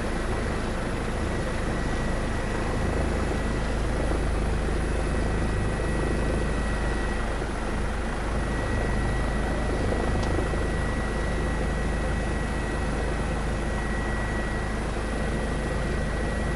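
Helicopter running steadily: an even rotor and engine drone with a faint steady high whine.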